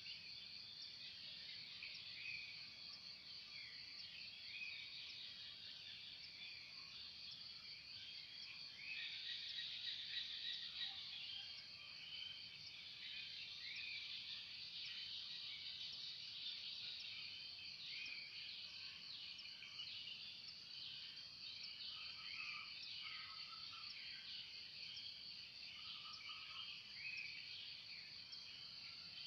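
Birds singing in the morning, many short chirps and calls overlapping, over a steady high-pitched insect drone.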